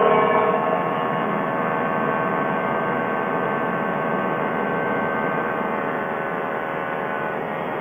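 Quicksilver ultralight airplane's engine and propeller running steadily at high power during take-off and climb, over a haze of wind noise. The sound eases a little about half a second in, then holds steady.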